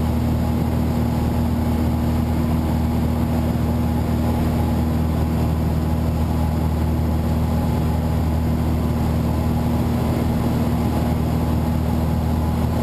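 Light aircraft's piston engine and propeller droning steadily in flight, with an even, unchanging pitch.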